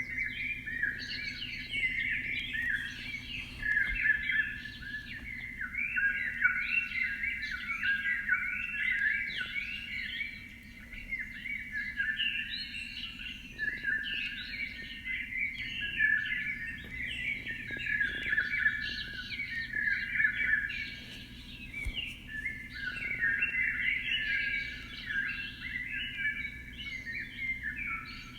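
Many small birds chirping together in a dense, unbroken chorus of short overlapping calls, over a faint steady low hum.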